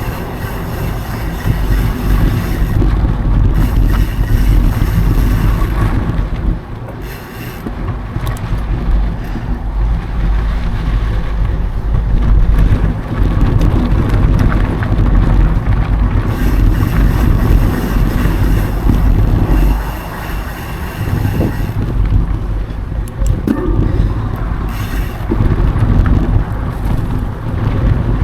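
Wind buffeting an action camera's microphone while a mountain bike rolls over dirt singletrack: a steady low rumble of wind and tyre noise that eases briefly twice.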